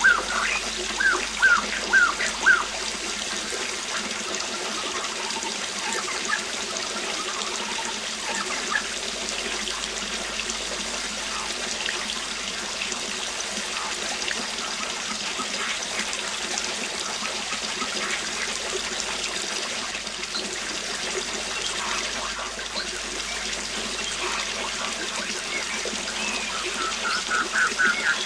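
Steady rush of a waterfall, with a songbird singing a run of short, quickly repeated whistled notes in the first couple of seconds and again near the end.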